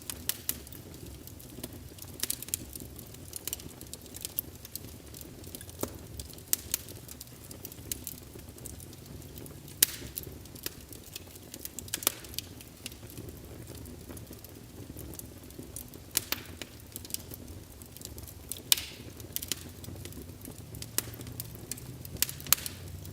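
Wood fire burning in a fireplace, crackling steadily with frequent sharp pops over a low rumble of flame. The loudest pop comes about ten seconds in.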